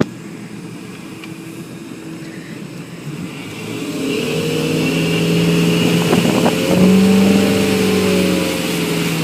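Motorboat engine running and speeding up, growing louder about four seconds in and rising a step in pitch near the seven-second mark.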